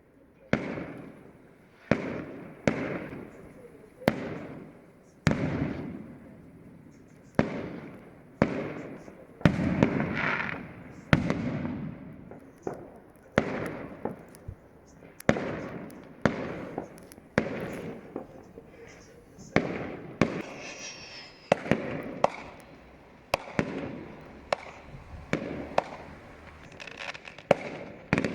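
Fireworks bursting in the sky, about one sharp bang a second, each followed by a rolling echo that dies away.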